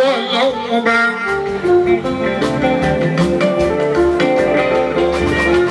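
Live fuji band music: pitched instrumental lines over a steady percussion beat.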